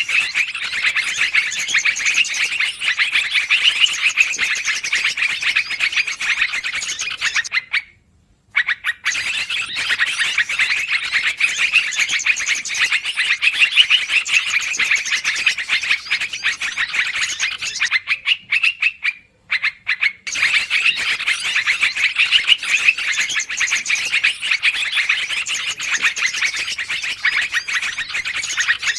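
Bird-lure recording of yellow-vented bulbuls (trucukan) calling busily: a dense run of rapid chirps that breaks off twice, briefly, about 8 and 19 seconds in, as the loop restarts.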